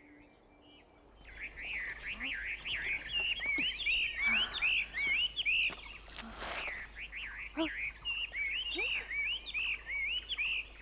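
Birds chirping, many short repeated calls overlapping, starting about a second in after near silence.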